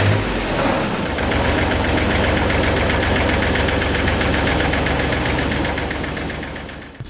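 Engine idling with a fast, even pulse, fading out near the end.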